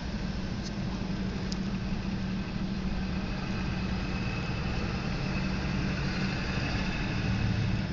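Steady low rumble of a freight train of boxcars rolling slowly through a grade crossing, heard from inside a waiting car with its engine idling.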